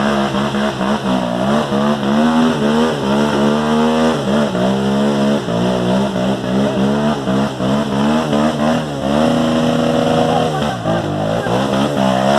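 Off-road motorcycle engine revving hard on a steep climb, its pitch rising and falling again and again, held high for a second or so late on before dropping back.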